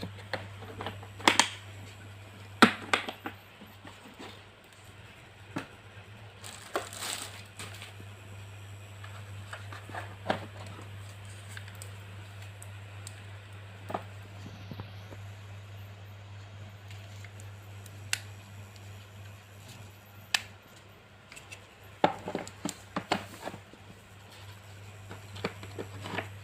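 Unpacking a boxed power drill by hand: packaging crinkling and tearing, with scattered sharp clicks and knocks as parts are handled. A longer rustle comes about seven seconds in, and a cluster of knocks comes near the end, over a steady low hum.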